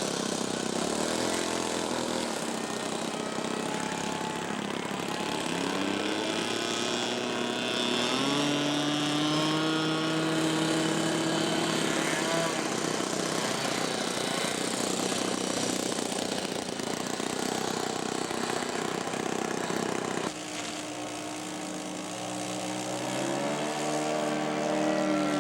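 Radio-controlled scale Piper Cub model's engine and propeller running up for takeoff. The engine's pitch climbs about six to eight seconds in and then holds steady at high throttle. About twenty seconds in, the sound switches abruptly to a lower, different engine tone.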